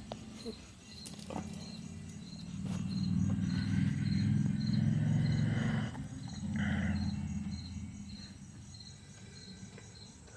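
Crickets chirping in a steady, even rhythm, about one and a half chirps a second. A louder low rumble rises over them from a couple of seconds in until past the middle, then fades.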